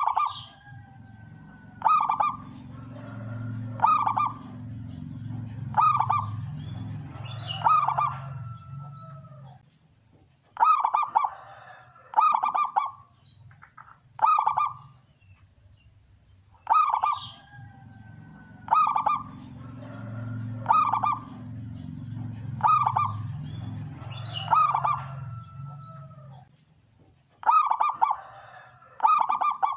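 Male zebra dove (perkutut) singing: loud, sharp cooing notes come about every one to two seconds, with a low rumble under the first and middle stretches. The same sequence of notes repeats about halfway through.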